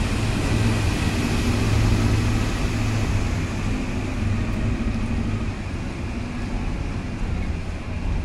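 Electric passenger train running across a steel truss railway bridge: a steady, deep rumble with a low hum that grows a little quieter over the second half as the train draws away.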